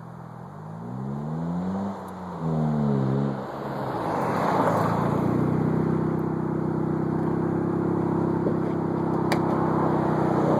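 1999 Honda Civic engine revving up twice, then held at high revs on the rev limiter while a front tyre spins, with a hiss from the spinning tyre over the engine note.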